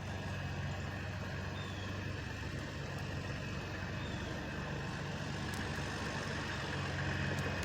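Truck engine idling steadily, with a constant low hum.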